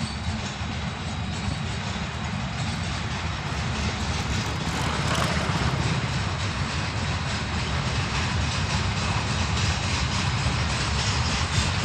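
A train running on the track, a steady rumble that slowly grows louder as it approaches.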